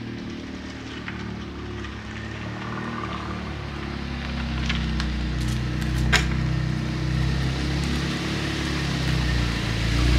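Audi S3's turbocharged four-cylinder engine running at low speed as the car rolls toward the microphone, growing steadily louder, with two sharp clicks about halfway through.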